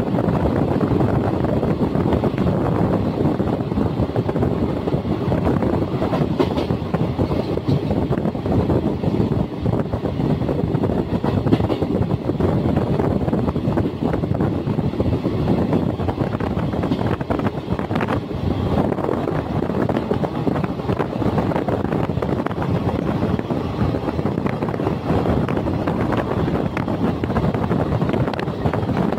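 Steady running noise of a passenger train's coaches travelling over the rails at speed, heard from an open coach doorway with wind across the microphone.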